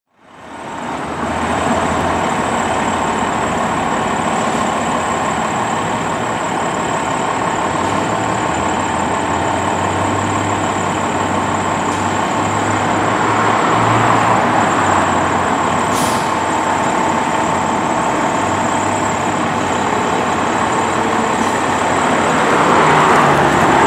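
KME fire engine's diesel engine idling with a steady low rumble and a faint steady whine above it. A single sharp click about sixteen seconds in.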